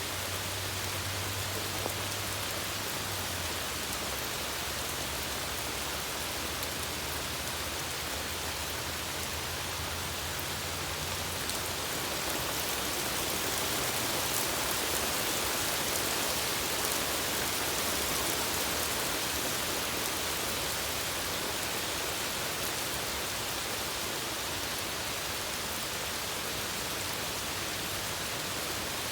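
Steady rain falling on a stream, a constant even hiss that swells slightly about halfway through.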